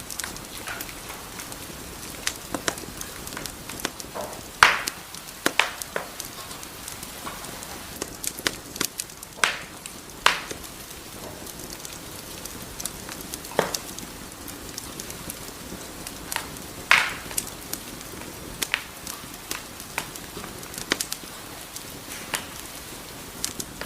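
Wood fire in a fireplace crackling: irregular sharp pops and snaps, a few louder ones, over a steady hiss of burning logs.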